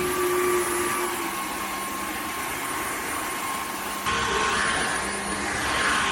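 Dreame H12 Pro cordless wet-dry vacuum mop running steadily as it cleans a floor: a steady suction hiss with a high motor whine. The sound shifts abruptly about four seconds in.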